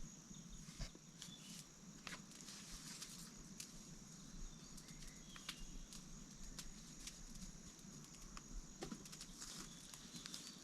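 Faint steady high-pitched drone of insects in the forest, with scattered light clicks and taps throughout.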